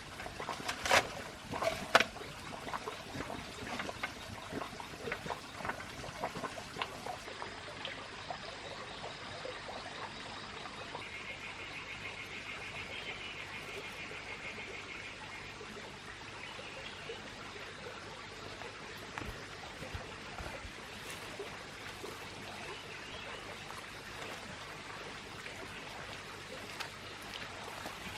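Running water, a steady trickle, with a few sharp knocks in the first two seconds.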